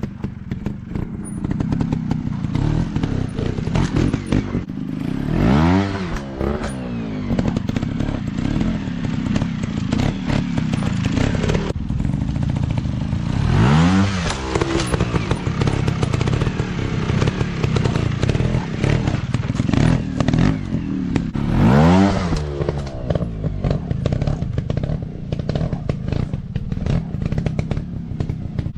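Dirt bike engine running with a rough, clattering beat. The throttle is blipped three times, about eight seconds apart, each time sending the pitch up and back down.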